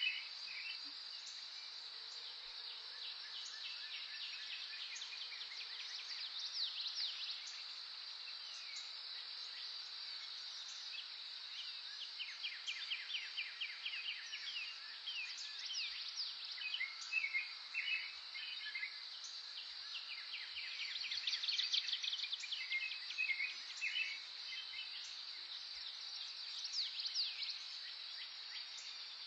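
Outdoor birdsong over a steady, high insect drone: several birds chirping, trilling and giving quick sweeping calls throughout, with a dense burst of calls around the middle.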